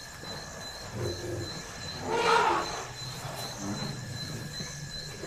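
Elephants calling around a newborn calf: low rumbling calls, with a louder, rough roaring call about two seconds in. Steady high insect trilling runs underneath.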